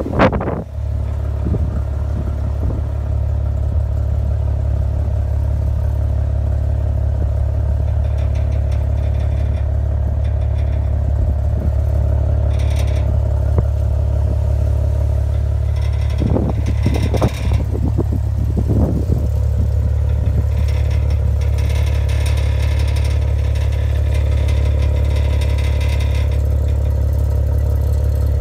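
2015 Maserati Ghibli's V6 engine idling steadily, with clacking and rattling from the exhaust pipes. A few sharper knocks stand out about two-thirds of the way through.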